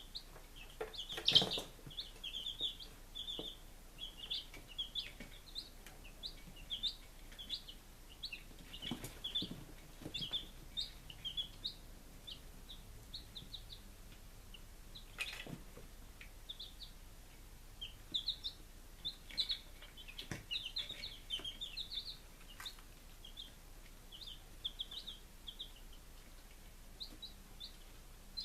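Five-day-old chicks peeping continually: many short, high peeps overlapping one another. A few sharp knocks sound among them, the loudest about a second in.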